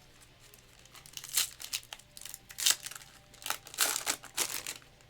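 Trading card pack wrapper being crinkled and torn open by hand: a run of irregular rustles and rips, the loudest about halfway through.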